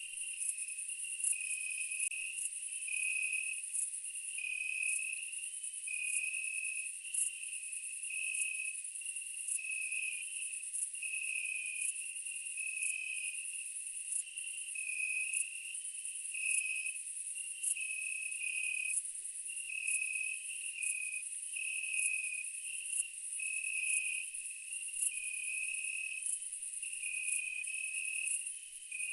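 Steady chorus of night insects, likely crickets: a high pulsing trill stepping between two close pitches, over a higher shrill whine crossed by regular ticks.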